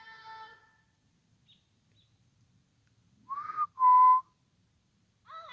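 A person whistling two short, loud notes in quick succession, the first bending slightly, the second held at a steady pitch, like a whistled call.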